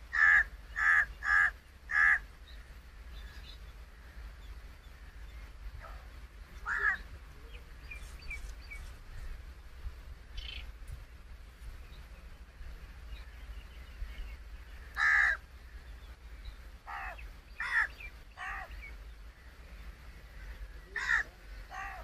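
Loud, harsh bird calls: four in quick succession right at the start, then single calls every few seconds, a few of them close together near the end.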